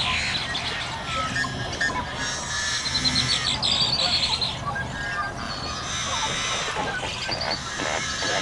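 Birds chirping in short, rapid high trills, repeated several times.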